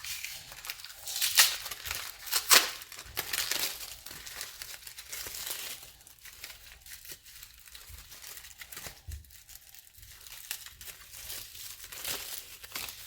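Plastic packaging crinkling and tearing as a small part from a hood strut kit is worked out of its bag. The loudest rustles come in the first few seconds, and quieter handling follows.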